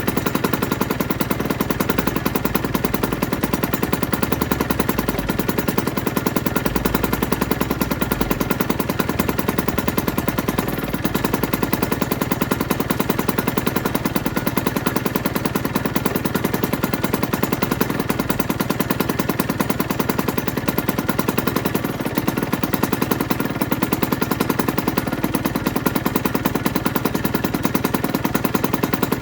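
2008 Aprilia RS125's single-cylinder two-stroke engine idling steadily, a fast even stream of exhaust pops that holds at one speed throughout.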